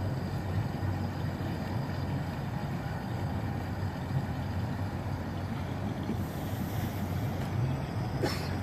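Fire boat's engine running steadily with a low rumble, wind on the microphone. A brief rising squeal near the end.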